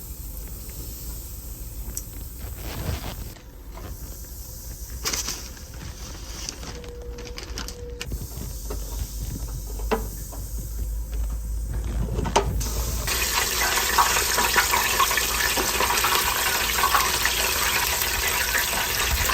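Chicken pieces frying in hot oil: a dense, steady crackling sizzle that starts abruptly about two-thirds of the way in. Before it there is only a low rumble with a few light knocks and rustles.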